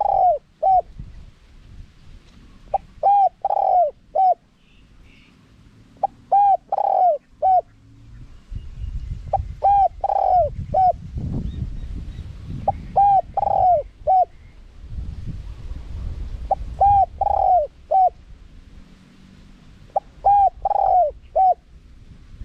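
Spotted dove cooing: the same short phrase of several coos, one drawn out longer than the rest, repeated about every three and a half seconds. A low rumble of background noise sits under the calls in the middle of the stretch.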